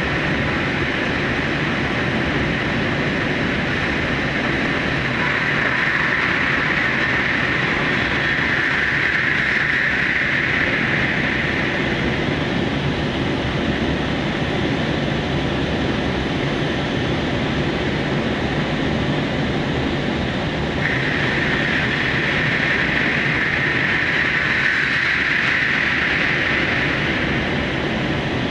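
Electric express train running at speed through the Seikan undersea tunnel, heard from the front cab: steady running noise of wheels on rail in the tunnel. A higher hiss swells twice, about five seconds in and again about twenty-one seconds in.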